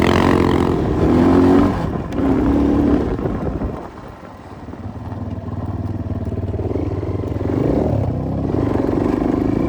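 Enduro motorcycle engine revving hard in bursts, easing off about four seconds in, then pulling steadily again.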